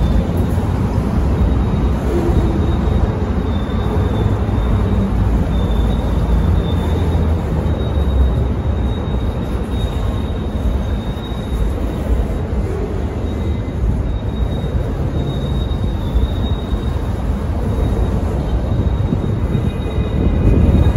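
Freight train of flatcars loaded with garbage containers rolling past: a continuous rumble of wheels on rail, with a thin high wheel squeal that comes and goes.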